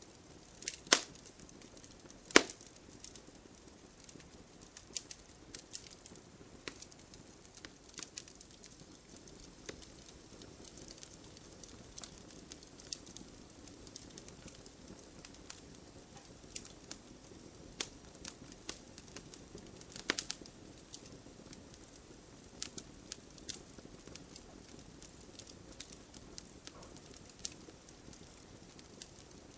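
Wood fire burning in a fireplace, with a soft steady hiss and irregular sharp pops and crackles; the loudest pops come about a second in, at about two and a half seconds, and around twenty seconds in.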